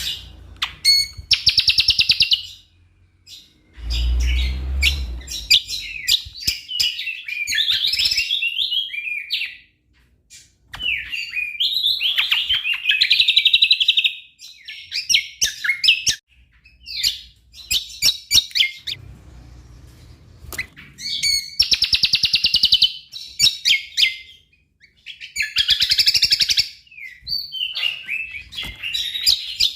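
Cucak kombo singing a loud song packed with mimicked calls of other birds: bursts of fast, chattering high notes lasting a few seconds each, broken by short pauses. A brief low rumble sounds about four seconds in.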